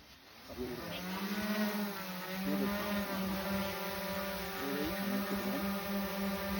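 Camera quadcopter drone's propellers spinning up about half a second in and then running with a steady high buzz as it lifts off and hovers, the pitch wavering briefly as it climbs.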